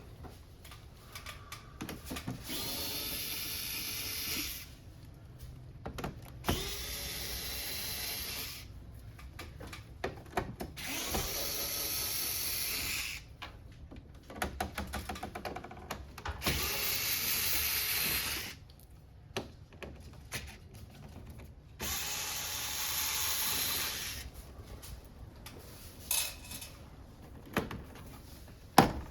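Cordless electric screwdriver run in five short bursts of about two seconds each, each spinning up with a rising whine, backing screws out of a Fujitsu Nocria wall-mounted air conditioner during disassembly. Small clicks and knocks of handled parts fall between the bursts.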